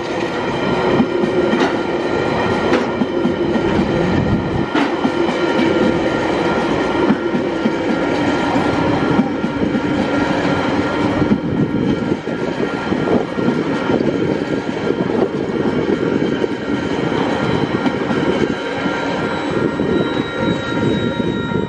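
Empty container flat wagons of a freight train rolling past on steel rails, wheels clattering with a few sharp knocks in the first seconds. A level crossing bell rings throughout and keeps ringing as the last wagon clears near the end.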